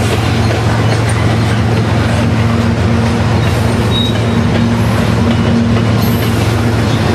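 Freight train's diesel locomotives shoving cars back at low speed, with a steady low engine drone and rolling rail noise. A brief high wheel squeal comes about four seconds in.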